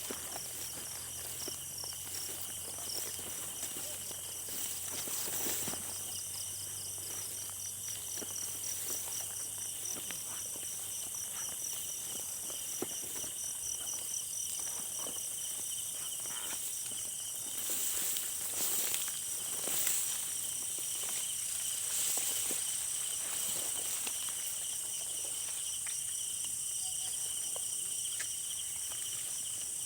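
Night insect chorus: several insects trilling steadily at different high pitches, one of them in a fast pulsing rhythm. Scattered footsteps and rustling of leaves and brush run through it.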